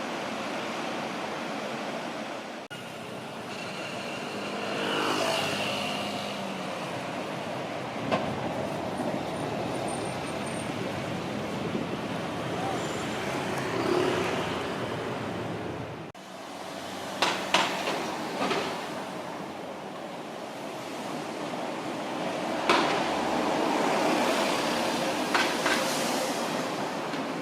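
Buses and road traffic passing on a street: a steady engine and tyre noise that swells and fades as vehicles go by, with a few sharp clicks or knocks in the second half.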